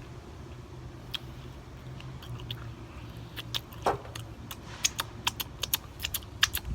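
Close-miked mouth chewing food with wet lip smacks and clicks, sparse at first and coming thick and fast in the second half.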